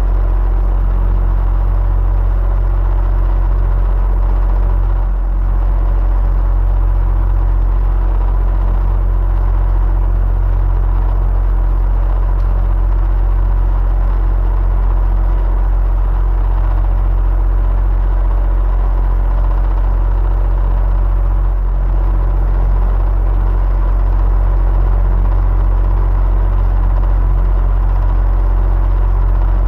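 Electric fan running steadily: an even, deep rumble of moving air with faint steady hum tones from the motor.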